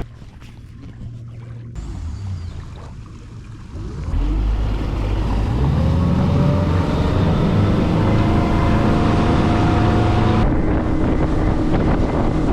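Fishing boat's motor running under way, throttled up about four seconds in, its pitch slowly rising as the boat gathers speed, with wind rushing over the microphone.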